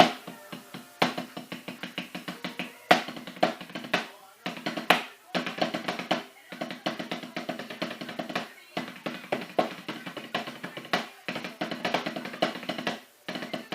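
Snare drum played solo with sticks: fast runs of strokes and rolls punctuated by loud accented hits, broken by several short pauses.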